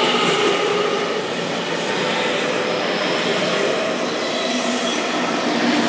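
Stainless-steel electric commuter train running along the platform close by, with steady wheel-on-rail noise from the cars going past.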